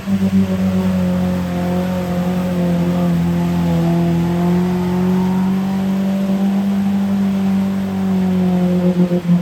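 A lifted mud truck on oversized tires running hard through a mud slough, its engine held at high, fairly steady revs under heavy load. The revs sag slightly midway and climb back near the end.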